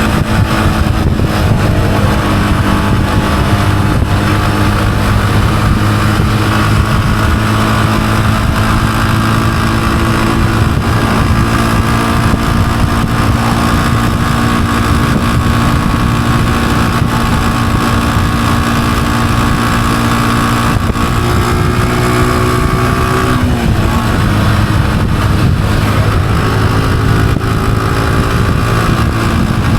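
Honda CG125's single-cylinder four-stroke engine running steadily at cruising speed, with wind noise. About three-quarters of the way through, the engine note climbs a little, then drops suddenly before settling again.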